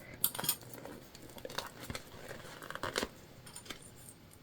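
Plastic sewing clips snapped one by one onto the edge of a jelly vinyl panel: a few separate light clicks at irregular intervals, with faint handling of the vinyl between them.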